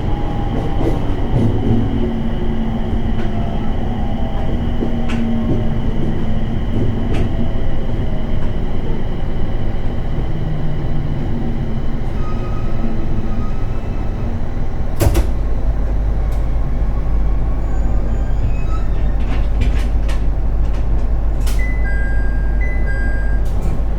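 701 series electric multiple unit braking into a station: the traction motors' whine falls in pitch as the train slows, then it stops with a clunk about fifteen seconds in and settles to a steady low hum. Near the end come clicks and short electronic beeps as the doors are worked.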